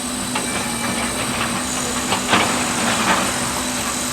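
A steady machine hum over a faint hiss, with a few light knocks, the loudest about two seconds in.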